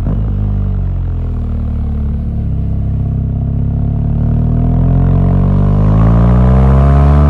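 BMW R1200GS boxer-twin engine under way: the revs sag a little for the first couple of seconds, then climb steadily as the bike pulls through the gear, with a break near the end like a gear change.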